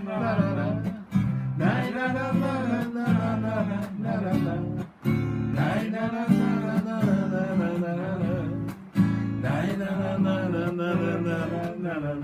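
Acoustic guitar strummed in a steady rhythm under a sung melody without words, between verses of a song.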